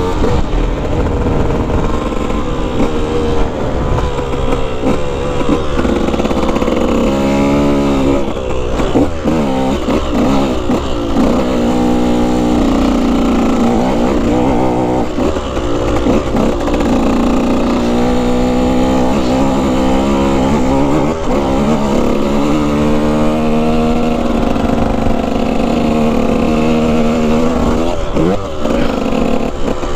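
Dirt bike engine running hard, its pitch repeatedly rising and falling as the throttle is worked, with steadier stretches near the middle.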